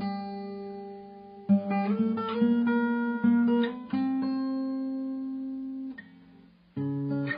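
Background music of acoustic guitar playing plucked notes and chords, each left to ring out, with a brief pause about six seconds in before it picks up again.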